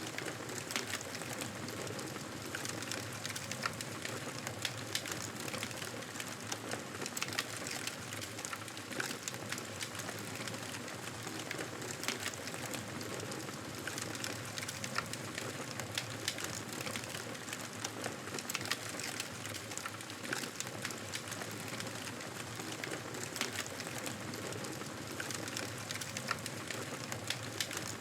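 Wood fire crackling in a fireplace: a steady hiss dotted with frequent small, sharp pops and snaps.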